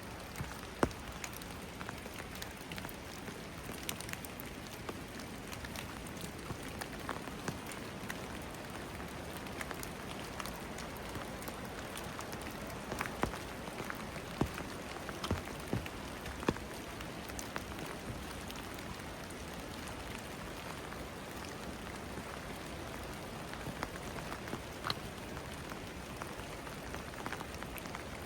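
Steady rain falling, with many individual raindrops tapping close by and a few louder drips or taps around the middle.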